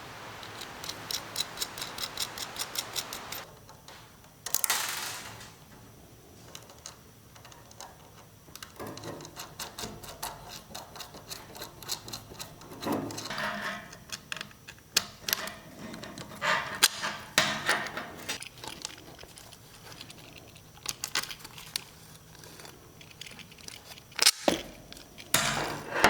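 Metal hand-tool work: a run of quick, even clicks over a hiss for the first few seconds, then scattered clicks and clinks of tools and metal parts.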